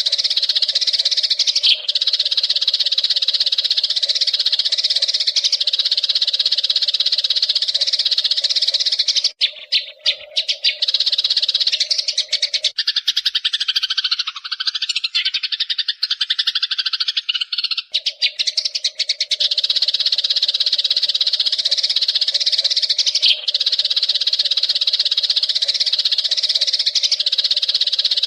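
Eurasian tree sparrows chattering in a dense, continuous, high-pitched stream of rapid chirps. About nine seconds in, it breaks into separate quick notes and lower gliding calls for several seconds, then the dense chatter resumes.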